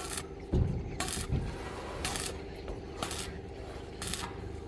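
Metal clinking, short sharp strikes about once a second, typical of rebar and steel tools being handled, over a steady hum.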